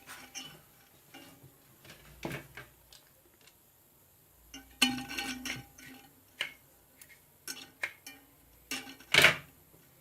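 Scattered metal clicks and knocks from handling the mixer grinder motor's rotor and housing while it is fitted and checked for free turning, with a clattering cluster about halfway and a louder knock near the end.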